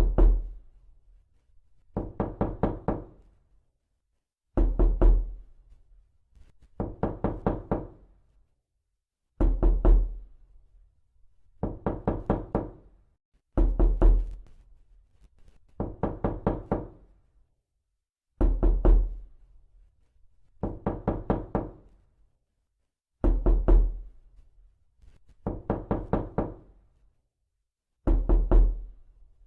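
Knocking: repeated bouts of five or six quick knuckle raps, a bout about every two and a half seconds with silence between, every other bout heavier and deeper.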